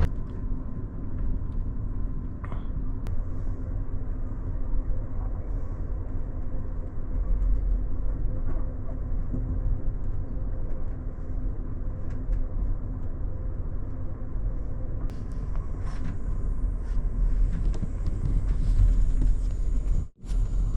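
Amtrak California Zephyr passenger train running, a steady low rumble. A hiss joins about three-quarters of the way through, and there is a brief sharp dropout near the end.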